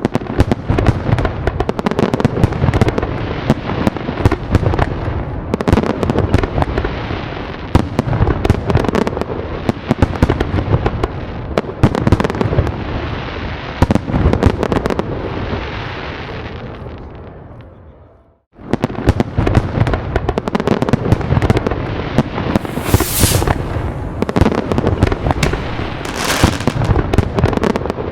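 Dense fireworks barrage: rapid overlapping bangs and crackling. It fades away about two-thirds of the way through, then starts again abruptly with another dense barrage, with two brief sharp hissing bursts near the end.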